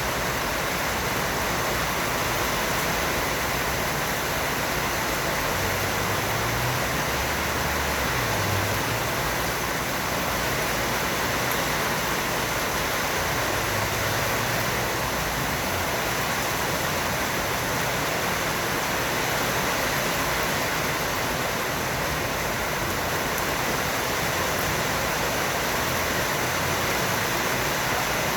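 Heavy rain falling, a dense, steady hiss with no let-up.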